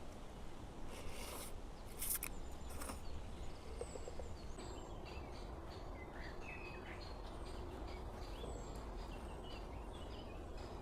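Outdoor ambience with small birds chirping in short, repeated calls over a steady low rumble, and a few sharp rustles or knocks about one to three seconds in.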